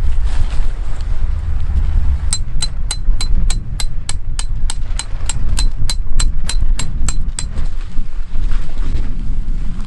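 Wind buffeting the microphone as a steady low rumble. About two seconds in, a run of about eighteen sharp, high clicks starts at a steady three to four a second and stops after about five seconds.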